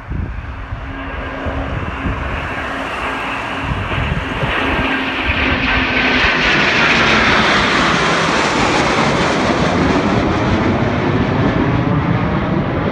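Military jet aircraft going by, a German Air Force Tornado or Eurofighter Typhoon. Its engine noise builds steadily and is loudest from about seven seconds in, staying loud to the end.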